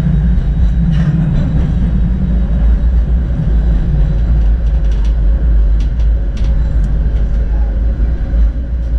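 Tram running along its track: a steady, loud low rumble of wheels on rails, with a few sharp clicks a little past the middle.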